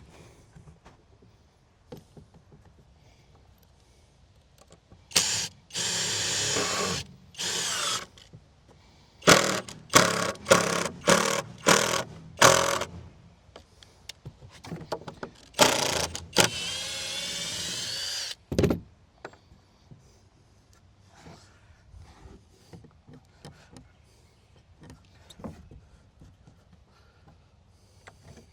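Power drill driving screws into wooden decking boards, in bursts: a few runs of a second or two and a quick series of short pulls on the trigger. One run ends with a rising whine, followed by a single sharp knock.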